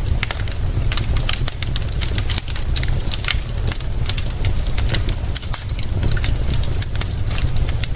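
Crackling fire, with frequent irregular sharp pops and snaps over a steady low rumble and hiss.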